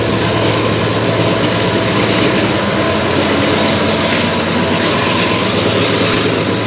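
Loaded coal train running at speed: a steady, loud rumble of steel wheels on the rails over the drone of its diesel locomotives.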